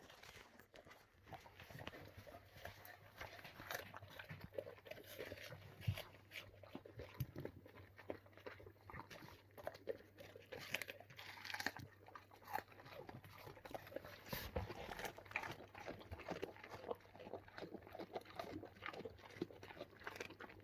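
Alaskan Malamutes chewing watermelon: a continuous run of small crunches and bites.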